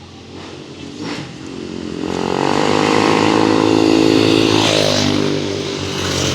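A motorcycle engine passing by: it grows louder over the first few seconds, is loudest near the middle, then fades as it moves away with a slight drop in pitch.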